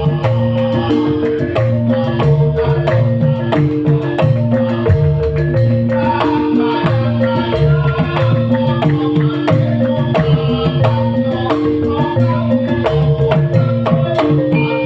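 Live band music with a fast hand-drum rhythm under held melody notes.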